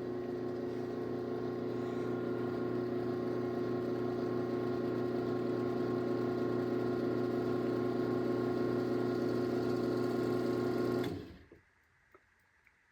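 Craftsman garage door opener's motor running as it opens the door, a steady pitched hum that cuts off about eleven seconds in when the door reaches its limit.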